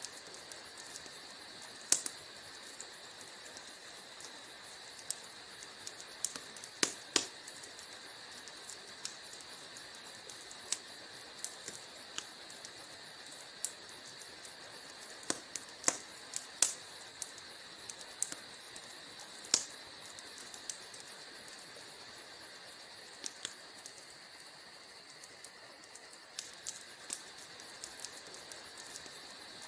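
Wood fire burning in a fireplace: irregular sharp crackles and pops, several louder snaps among them, over a steady high hiss.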